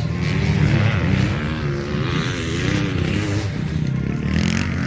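Motocross dirt bike engines running on the track, their pitch wavering up and down as the riders work the throttle.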